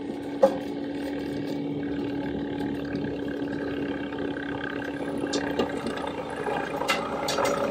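Skid steer running a Coneteks forestry rotor head through the soil: a steady engine and rotor drone with a sharp knock about half a second in and scattered smaller clicks later, growing louder toward the end.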